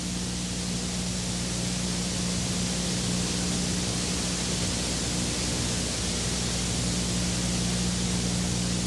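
Steady road and wind noise from a moving car, heard from inside, with a constant low hum under an even hiss.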